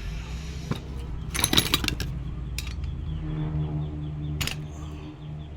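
Metal clinks of tools and engine parts being handled, with a cluster of bright clinks about a second and a half in and a few single clicks, over a low steady hum.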